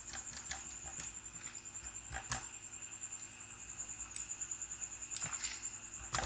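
Computer keyboard typing: short, irregular key clicks, the loudest near the end, over a faint steady high-pitched whine.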